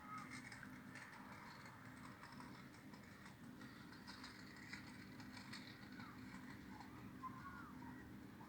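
Faint scattered bird chirps, short and sliding in pitch, over a low steady hum.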